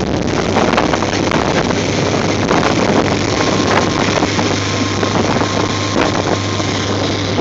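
Motorboat running along at speed: a steady low engine hum under a loud rush of wind buffeting the phone's microphone, with water noise.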